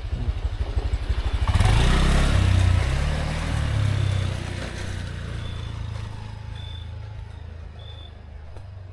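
Small motorcycle engine puttering at idle, then revving hard about a second and a half in and pulling away, its sound fading over the following seconds.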